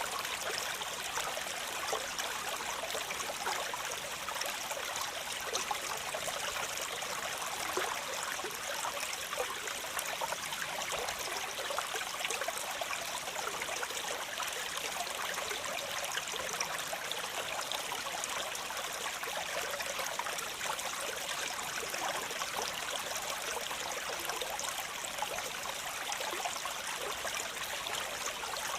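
Waterfall water splashing and trickling steadily, a bright, even rush with many small splashes and little deep rumble.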